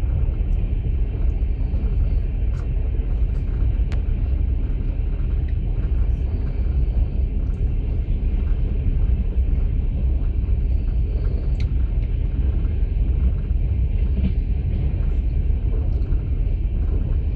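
Moving passenger train heard from inside a sleeper carriage: a steady low rumble of the wheels and running gear on the track, with a few faint clicks.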